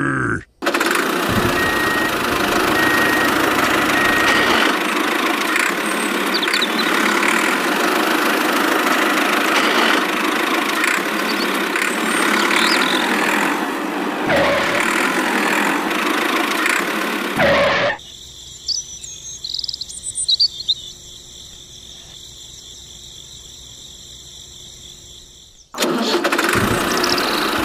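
Tractor engine running steadily. Past the middle it drops out for several seconds, leaving a quieter stretch with a few faint high chirps, then starts up again near the end.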